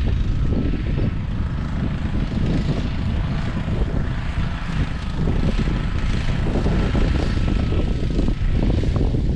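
Strong wind buffeting the microphone: a loud, steady low rumble with a rushing hiss above it.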